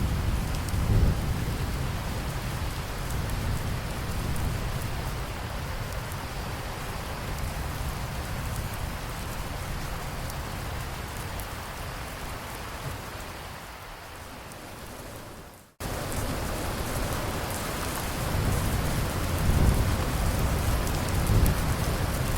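Steady rain pattering, with low thunder rumbles about a second in and again near the end. About two-thirds of the way through the rain fades away to near silence and then cuts straight back in.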